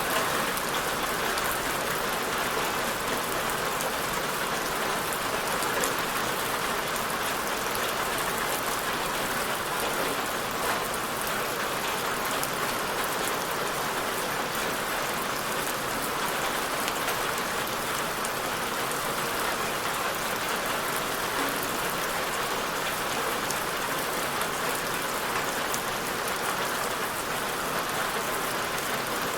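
Steady rain falling on a surface, with a dense patter of individual drops and no breaks.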